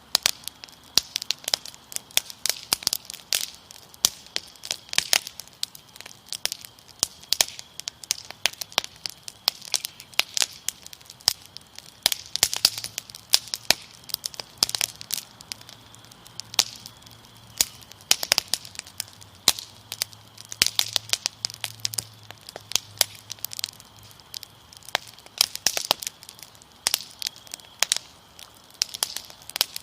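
Fire crackling with frequent irregular sharp pops, over a steady high trill of crickets.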